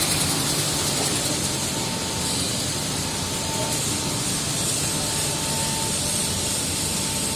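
Industrial microwave chili drying machine running: a steady mechanical rush of fans and motors, with a faint high whine coming in about halfway.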